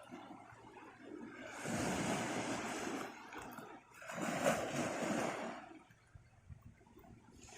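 Shallow sea surf washing in, two swells of rushing water each lasting about two seconds.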